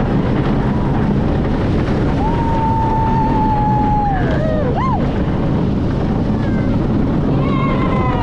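Steady rushing wind noise on the microphone over a low rumble, with drawn-out pitched cries or whoops that rise and fall; one is held for about two seconds in the middle.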